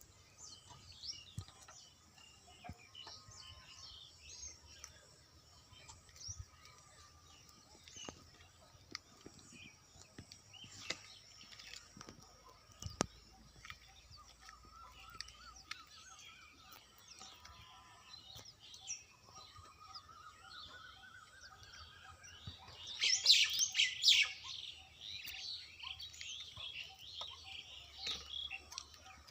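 Small birds chirping, with many short high tweets and a loud burst of rapid chirping about three quarters of the way through. These are typical of a young bird begging for food at the nest.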